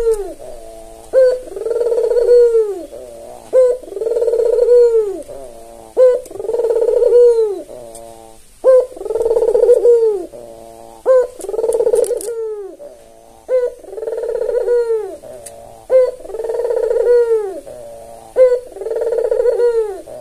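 An albino barbary dove (puter) cooing over and over, about eight calls, one every two and a half seconds. Each call is a short sharp note followed by a longer rounded coo that falls away at its end.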